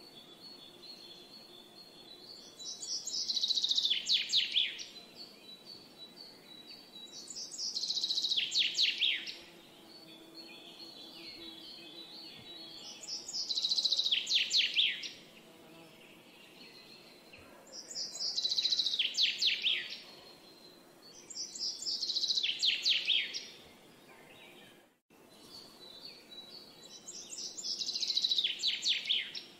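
A songbird singing the same song six times, about every five seconds: each is a rapid run of notes, about two seconds long, that falls in pitch toward the end. Between songs there is a faint, thin, steady high tone over a soft background hiss.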